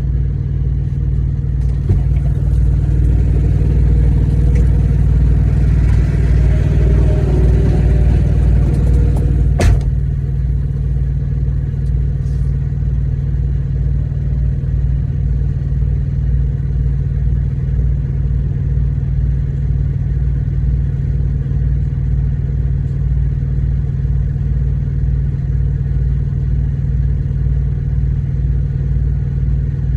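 A truck engine idling with a steady low rumble. A louder, rising sound builds for several seconds and ends with a sharp click about ten seconds in.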